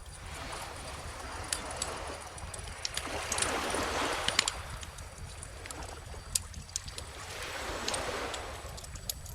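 Calm ocean waves washing in, swelling twice, with a wood bonfire crackling and popping in sharp scattered clicks over a low steady rumble.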